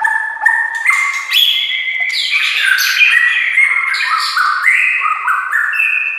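White-rumped shama (murai batu) singing a continuous run of varied whistled phrases and quick repeated notes, one phrase after another without a break.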